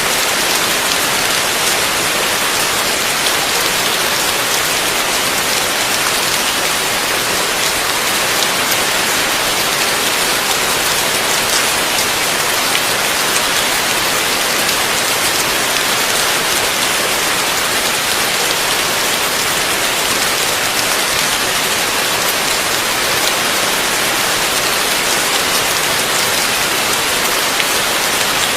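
Heavy rain falling steadily, a dense, even hiss of drops striking surfaces, with no thunder.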